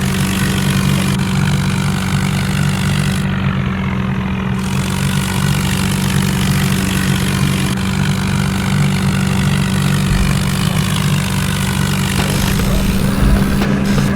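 Tractor engine running at a steady speed, with a constant low drone.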